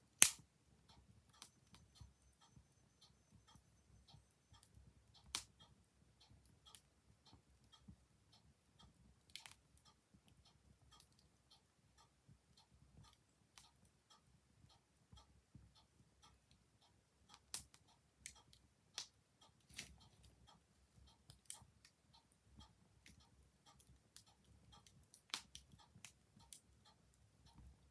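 Wood fire crackling with scattered sharp pops, the loudest right at the start, together with a clock ticking steadily.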